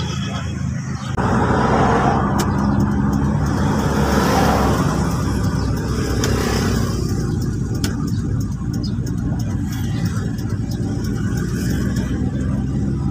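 A motor vehicle's engine running steadily with road and wind noise. The noise swells about a second in and eases after about seven seconds.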